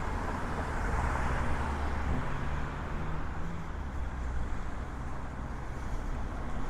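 Street traffic: motor vehicles passing on the road, tyre and engine noise over a steady low rumble, loudest near the start and easing off.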